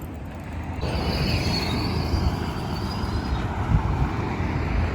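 Road traffic noise heard while cycling along a street, with wind rumbling on the microphone. The traffic sound swells about a second in, with a faint high whine that fades out a couple of seconds later.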